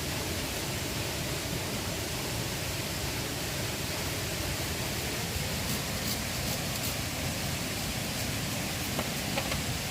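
Steady rushing of river water, an even noise with no change in level, with a few faint taps in the second half.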